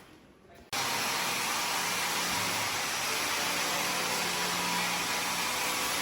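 A power tool or machine starts up abruptly less than a second in and runs steadily with a loud, even hiss and a faint hum.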